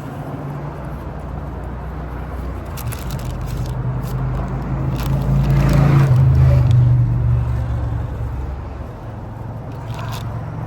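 A motor vehicle's engine hum that swells to its loudest about six seconds in and then fades away, like a car driving past.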